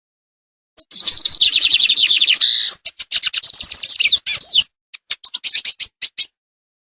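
A songbird singing a fast, varied song of rapid sweeping whistled notes in three phrases, the last a quick run of short notes.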